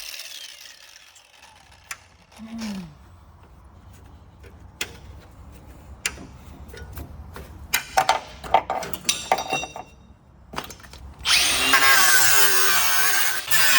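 Scattered knocks and metal clinks, with a cluster of loud clanks that briefly ring about eight to nine and a half seconds in. About eleven seconds in, a handheld power tool starts and runs loudly on the car's sheet-steel body, its pitch wavering as it works.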